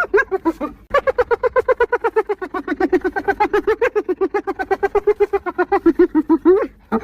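Spotted hyena giggling: a brief burst, then, after a short pause, a long rapid string of short yelping notes at about nine a second that ends on a rising note. A new burst starts near the end.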